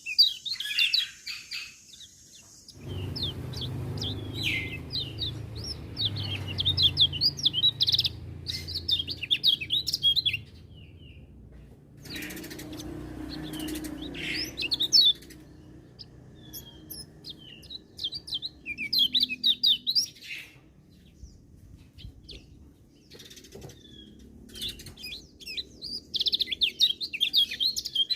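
Kecial kuning white-eye singing: rapid, high, twittering phrases of short sliding notes, given in several bursts with pauses between them. A low rumble runs under the first half.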